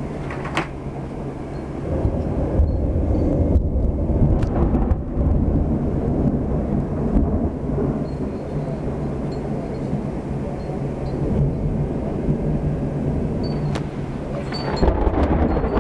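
Thunder rumbling low and long during a severe thunderstorm, swelling about two seconds in and again near the end.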